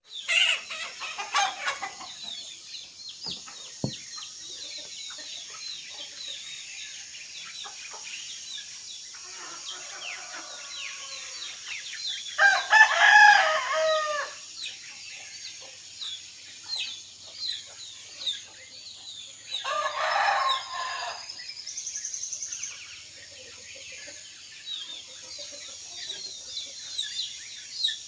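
Roosters crowing, two long crows about twelve and twenty seconds in, over a constant chatter of small birds chirping.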